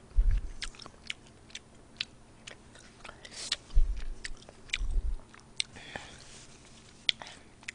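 A woman chewing a mouthful of noodles and fried rice close to the microphone: a scatter of short wet mouth clicks and smacks, with a few dull low thumps.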